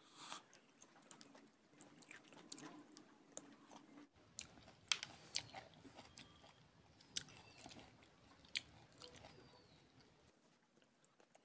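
Faint close-up chewing and biting of juicy orange segments, with scattered short wet clicks and smacks of the mouth.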